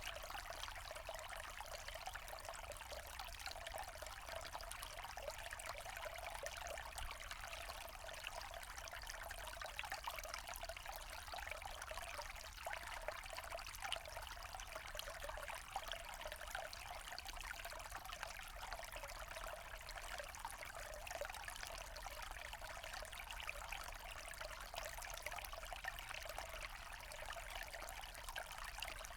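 A small forest stream trickling and pouring over stones, steady and unchanging.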